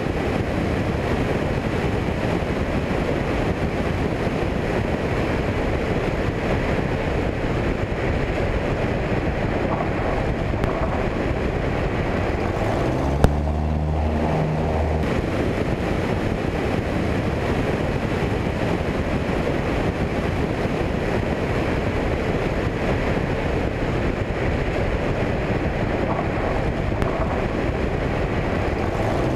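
Cockpit noise of a Cessna 172 in flight: the fuel-injected four-cylinder engine and propeller drone steadily under rushing wind. A brief low hum with a click comes about halfway through.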